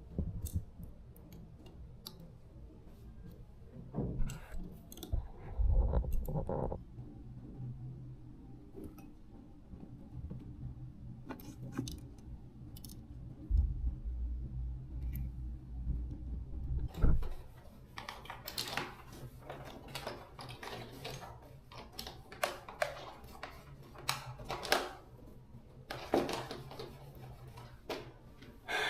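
Irregular clicks, taps and light metallic clatter of tools and small metal parts being handled during fan-motor repair work, with a few heavier knocks and a low steady hum underneath. The clicking gets busier in the second half.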